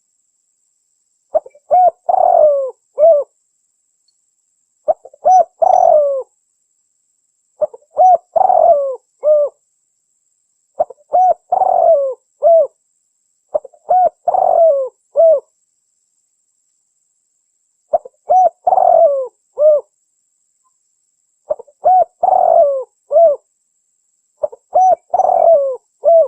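Spotted dove cooing: short phrases of a few curving coos, about eight phrases repeated every three seconds or so, with dead silence between them.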